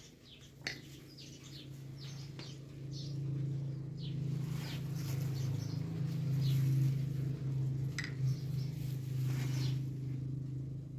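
Small birds chirping outdoors in short, scattered calls, over a steady low hum that swells in the middle and is the loudest sound.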